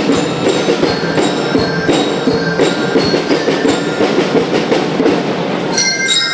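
A school rhythm band playing: steady drumming with bright ringing notes from bell-lyres or glockenspiels over it, and a new run of held notes near the end.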